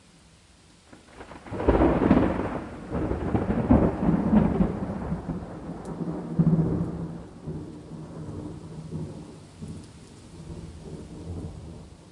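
A peal of thunder over steady rain. It breaks in about a second and a half in, rumbles in several rolling surges over the next few seconds, and slowly dies away toward the end, leaving the rain.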